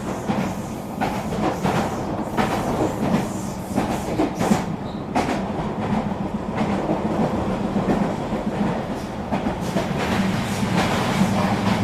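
Eurobahn RE3 regional train running along the line: the wheels clatter irregularly over rail joints, over a steady low hum.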